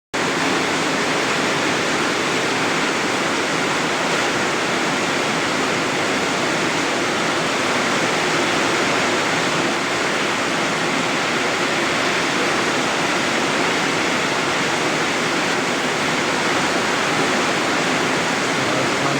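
Heavy rain pouring down, a steady, dense hiss of falling drops with no change in strength.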